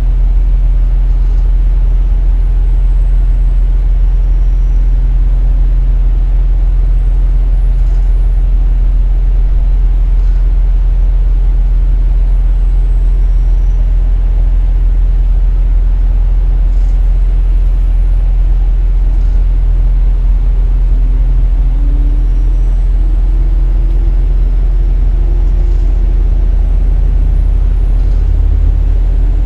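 KiHa 47 diesel railcar under way: a steady low diesel engine drone with rail and running noise. Near the end a tone slowly rises in pitch.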